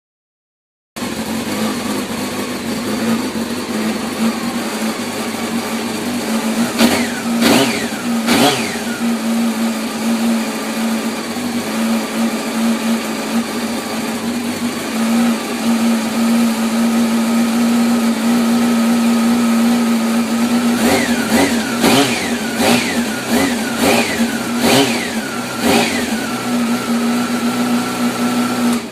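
1993 Honda CBR600F inline-four engine idling through new downpipes and a Danmoto Jisu slip-on end can, with sharp throttle blips: three about seven seconds in, then a quick run of about six later on.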